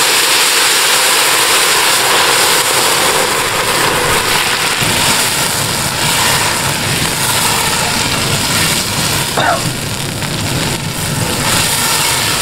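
Onion and spice masala sizzling hard in hot ghee in a pot as chicken stock is poured in and stirred: a loud, steady crackling hiss.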